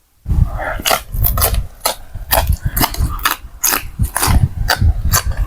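Close-up eating sounds: boat noodles in pork broth being slurped and chewed, with repeated sharp wet mouth smacks, about two or three a second.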